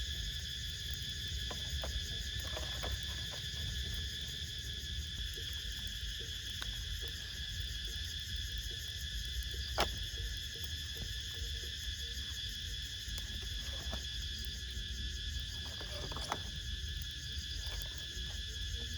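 Steady insect chorus: a continuous high drone at several pitches over a low steady rumble. Scattered faint clicks run through it, with one sharper snap about halfway through.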